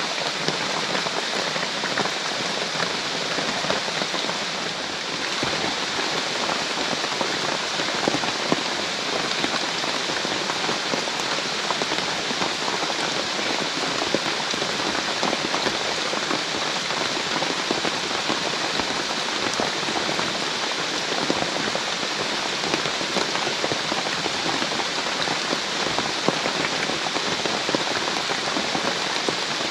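Heavy rain falling steadily, a continuous hiss with many small drop ticks.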